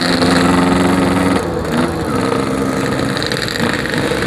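Yamaha RX-King's 135cc two-stroke single-cylinder engine running under way, its note steady and then dropping about a second and a half in as the revs fall. The rider takes the carburettor to be set too rich, which he says makes the low revs stutter.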